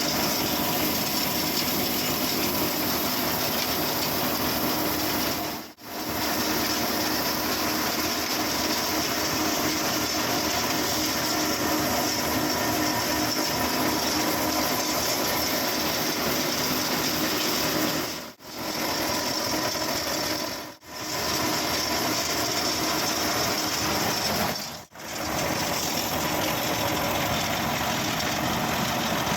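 Mahindra Yuvraj mini tractor engine running steadily under load while driving a threshing machine, with a constant mechanical din. The sound drops out briefly four times.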